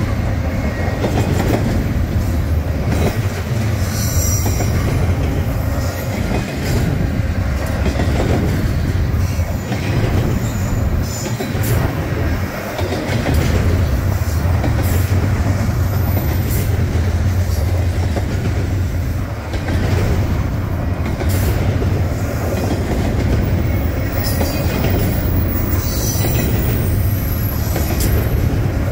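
Double-stack intermodal train of container well cars rolling past at close range: a steady heavy rumble of steel wheels on rail, with scattered clicks and a few brief high-pitched wheel squeals.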